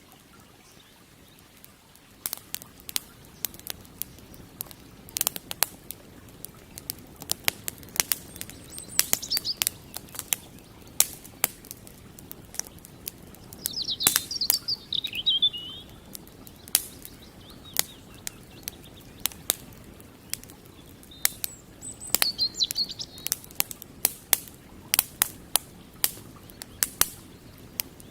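Wood campfire crackling, with sharp irregular pops and snaps setting in about two seconds in and continuing thickly. A small bird chirps in short phrases several times.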